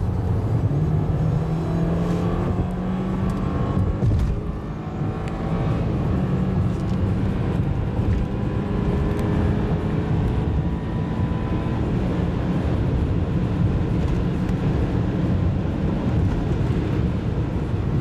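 2013 BMW 528i xDrive's turbocharged four-cylinder engine under hard acceleration from cruising speed, its note rising in pitch. The note drops about four seconds in as the gearbox shifts up, climbs again, and then runs steadily over road noise.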